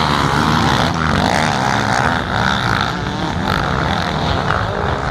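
Motorcycle engine running.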